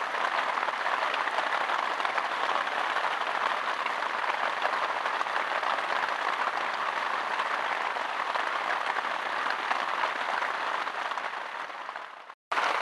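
Heavy rain drumming on the fabric of a tent, a dense steady patter. It fades and cuts out for a moment near the end, then comes back.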